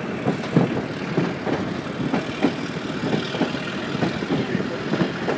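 Narrow-gauge passenger train car running on the rails: a steady rumble with frequent, irregular clacks and rattles from the wheels and the car.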